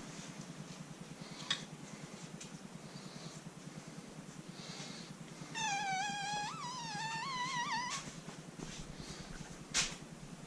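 A drawn-out, wavering animal call lasting a couple of seconds, heard over a steady low hum. There is a light click about a second and a half in and a sharper click near the end.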